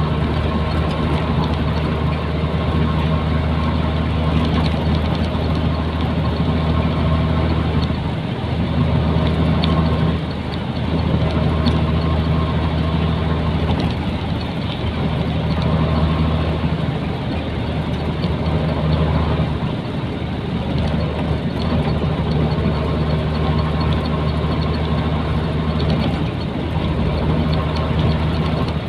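Nissan Diesel container truck's diesel engine running steadily, its low drone dipping briefly a few times.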